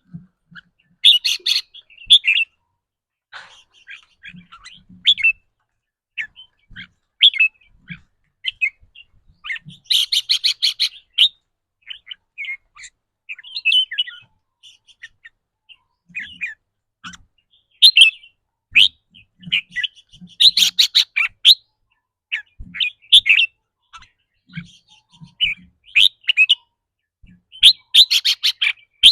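Red-whiskered bulbul calling, with short chirps and whistled notes broken by a fast rattling 'rik' trill about four times.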